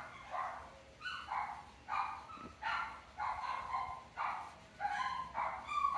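A dog barking and yipping over and over, in short high calls coming about every half second or so.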